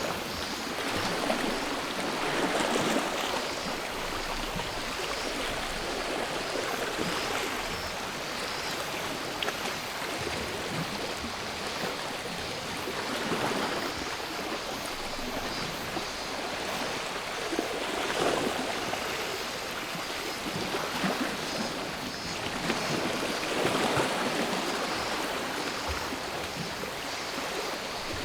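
Sea waves washing onto the shore, the surf swelling and falling back every few seconds, with a faint steady drone of cicadas.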